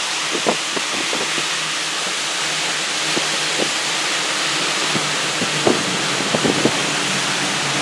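Steady rushing hiss of tropical-storm wind and rain, with a faint low hum underneath and scattered short knocks, several clustered in the last couple of seconds.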